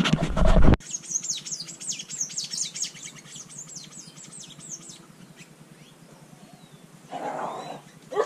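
A brief loud burst of rumbling noise, then a bird singing a rapid series of high, falling whistled notes for about four seconds. A short rough noise comes near the end.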